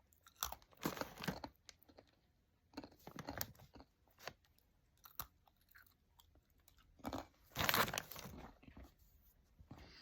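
Crunching and chewing of hard, crisp pretzels close to the microphone, in irregular bursts of crackling crunches, the loudest about three-quarters of the way through.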